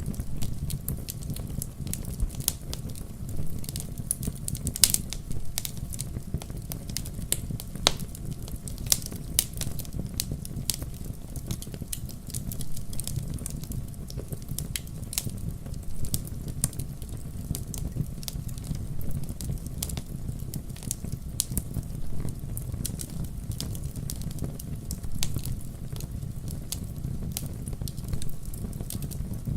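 Fireplace fire crackling, with frequent irregular sharp pops and snaps over a low, steady rumble of the flames.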